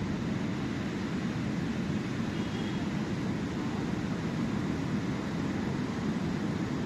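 Steady roar of sea surf, an even rushing noise without distinct wave breaks.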